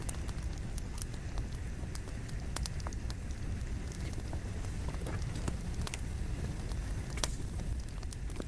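Wood fire burning, with a steady low rush of flames and irregular sharp crackles and pops from the burning logs, one louder pop near the end.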